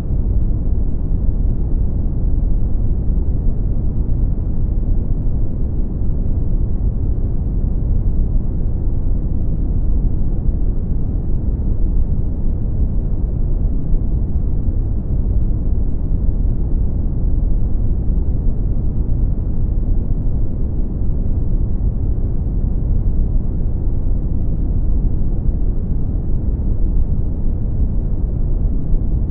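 Brown noise: a steady, deep, even hiss that is strongest in the lows and dies away toward the highs.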